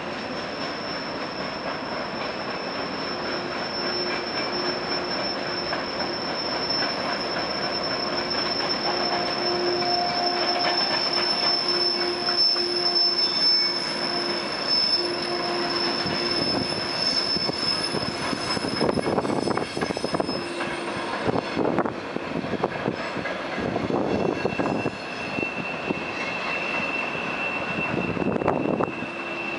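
Train passing at close range, its wheels squealing in long, steady, high-pitched tones over the rumble and clatter of the cars. The highest squeal fades out about 20 seconds in, and a lower squeal starts about 25 seconds in.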